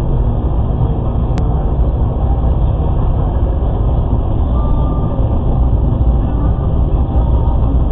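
Steady low noise of a moving road vehicle, with one sharp click about a second and a half in.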